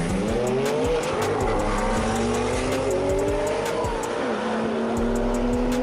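A high-performance car engine accelerating hard, its pitch climbing in each gear and dropping sharply at three upshifts.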